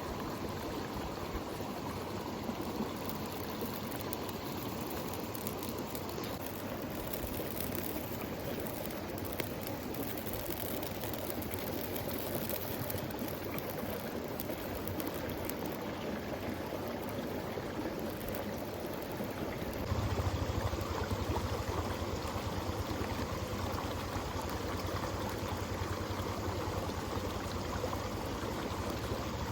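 Steady sound of water, an even rushing noise with no separate events. About twenty seconds in it gets louder and a low rumble joins it.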